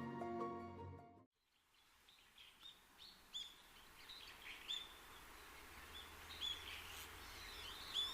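Soft music cuts off about a second in. After a brief silence, birds call in short, irregular chirps over faint outdoor background noise.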